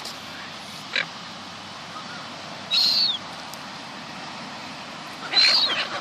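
Seagulls calling: two short, high cries, one about three seconds in and one near the end, each ending in a falling note, with a brief sharp call about a second in.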